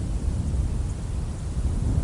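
A steady low rumbling noise with a fainter hiss above it.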